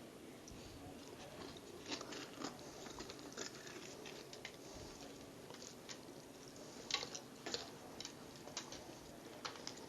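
Hands working inside a raw, partly icy turkey carcass: faint, scattered wet clicks and crackles, with small clusters about two seconds in and again around seven seconds.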